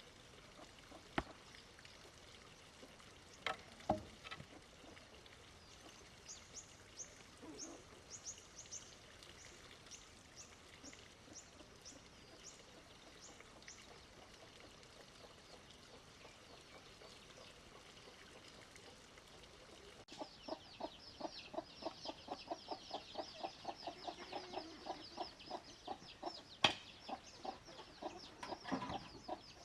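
Chickens clucking in a fast, overlapping run of calls that starts abruptly about two thirds of the way in. Before it there is a stretch of faint, high chirps, and a few sharp knocks stand out.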